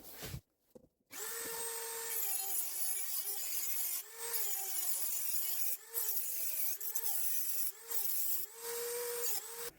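Dremel rotary tool with a cutting disc cutting into the steel exhaust muffler of a Stihl MS170 chainsaw: a high motor whine with a hissing grind, its pitch dipping each time the disc bites into the metal. It starts about a second in, eases off briefly a few times, and stops near the end.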